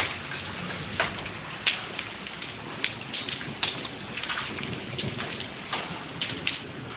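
Hail falling and pelting hard surfaces: a steady hiss of falling ice with irregular sharp clacks of individual hailstones striking.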